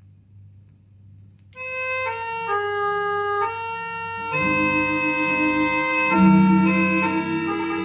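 Opening of an old Thai pop song played from a vinyl record: over a low hum, an organ melody of held notes comes in about a second and a half in, and a fuller band with bass joins about four seconds in.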